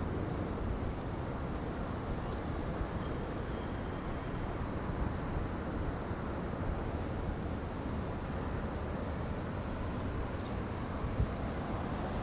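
Wind blowing across the microphone: a steady low rush with no distinct events.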